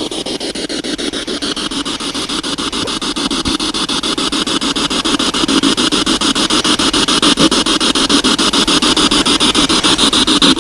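Spirit box (radio-sweep ghost box) scanning, a fast choppy stream of radio static broken into rapid, evenly spaced clicks, several a second, slowly growing louder.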